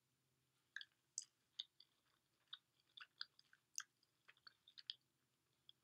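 Faint mouth sounds of someone chewing a spoonful of firm-textured rolled spelt hot cereal: a scatter of small, irregular clicks and crunches starting about a second in.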